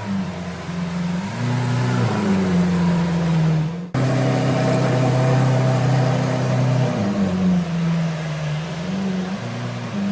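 Lamborghini Aventador Superveloce's V12 engine running at held revs that step up and down several times, with an abrupt cut in the sound about four seconds in.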